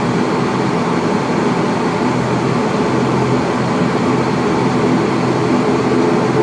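ATR 42-600's Pratt & Whitney PW127M turboprops heard from inside the cabin while taxiing at low power: a steady, even drone with a constant low propeller hum.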